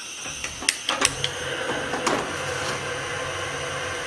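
A few sharp clicks and knocks as a lit fire starter is set in place in a wood stove, over a steady hum that begins about a second in.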